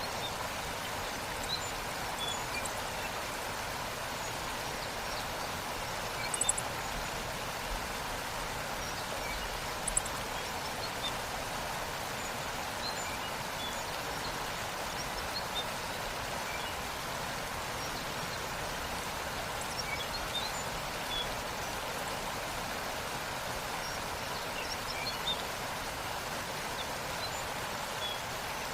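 Waterfall water rushing steadily over rocks, with faint scattered high bird chirps. Two sharp clicks stand out, one about six and a half seconds in and another about ten seconds in.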